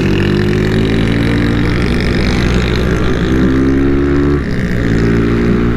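Honda CG 160 Titan's single-cylinder four-stroke engine running under way, its note climbing slightly, then dipping briefly about four seconds in before picking up again.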